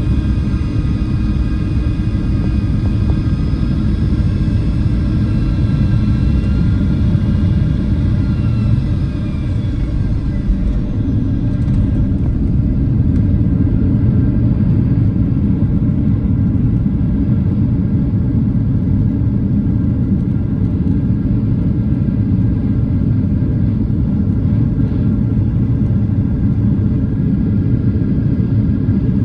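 Cabin noise of a Boeing 737-800 in flight: a steady rumble from its CFM56-7B turbofans and the airflow. Several whining engine tones drop in pitch over about the first ten seconds, as thrust is reduced, and then fade.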